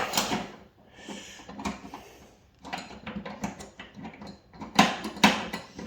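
Light metal clicks and knocks as a new M6 bolt is handled and started into the fender bolt hole on the hood-strut bracket, scattered at first, busier from about halfway, with two louder knocks near the end.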